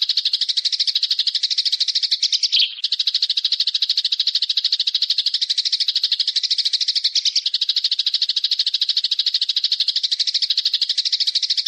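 A small bird's fast, high-pitched rattling call, its notes repeated evenly without pause, with one short break about two and a half seconds in.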